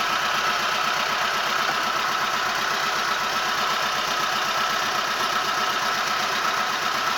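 Boat engine running steadily, a constant mechanical drone with a steady high whine over it.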